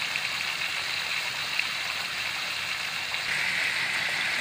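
Pork liver slices frying in hot oil in a wok: a steady sizzle with an occasional pop, growing louder about three seconds in.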